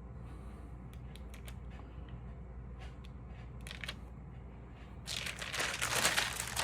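Stamp album pages being handled: a few small clicks and taps, then from about five seconds in a louder crinkling rustle as the pages are turned.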